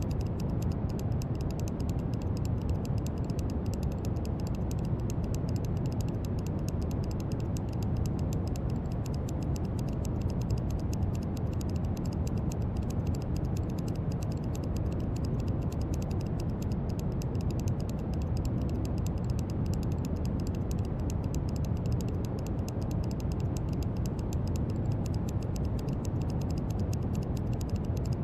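Steady brown noise: an even, deep rushing hiss, strongest in the bass and fading toward the treble, with a fine, dense crackle faintly on top.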